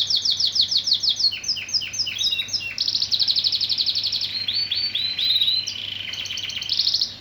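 Lancashire canary singing: a series of repeated, quickly falling notes that breaks into a fast rolling trill about three seconds in, then slower notes and a second rapid trill that stops abruptly near the end.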